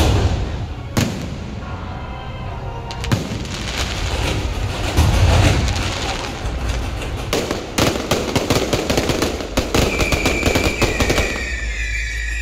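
Fireworks going off: single loud bangs early on, then a dense run of rapid crackling bangs in the second half. A high steady whistling tone comes in near the end.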